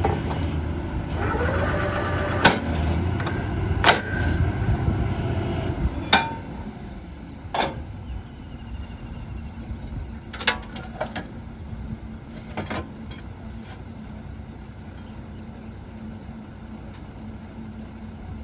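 Borewell drilling rig running, with several sharp metallic clanks of steel on steel. About six seconds in the machine noise drops to a quieter steady hum, broken by a few more clanks.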